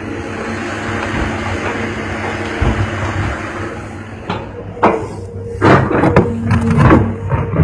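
Hitachi excavator at work: its engine runs steadily under a rushing hiss, then a string of loud metallic clanks and knocks in the second half.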